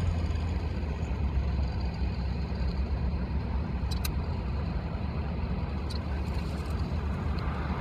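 Steady low rumble of a car's engine idling, heard from inside the cabin, with two faint clicks about four and six seconds in.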